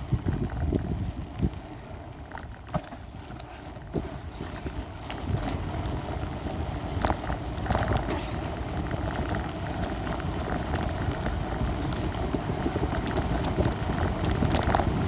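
Bicycle being ridden, picked up by a phone taped to the front of the bike: steady rumble of wind and tyres with scattered rattles and clicks, which get busier about halfway through.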